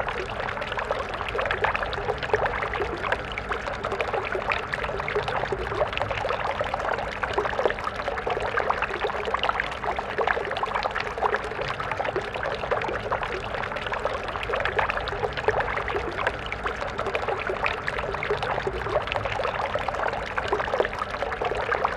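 Stream water flowing steadily over rocks, a continuous babble dense with small splashes.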